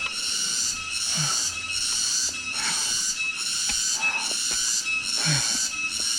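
A shrill insect chorus, likely cicadas, pulsing about once every three-quarters of a second. Three times a tired climber gives a low, falling, groaning breath out: near the start, about a second in, and about five seconds in.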